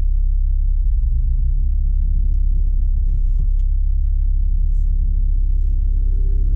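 A steady, loud, deep rumble.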